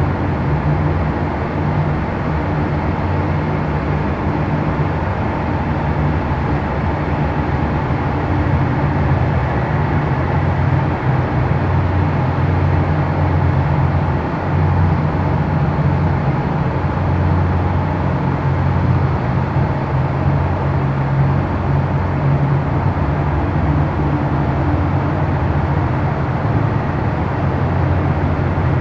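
Steady low mechanical drone, like an engine or motor running continuously, swelling slightly in level but never stopping.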